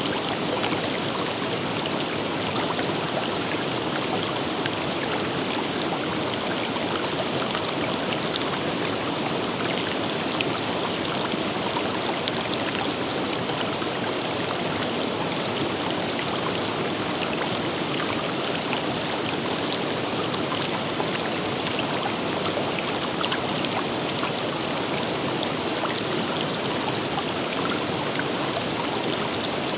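Forest river flowing steadily: continuous rushing water with many small splashes and trickles. A faint, steady high-pitched tone joins in near the end.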